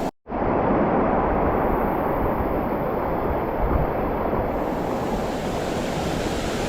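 Steady rush of falling water from a waterfall, cutting out for a split second just after the start.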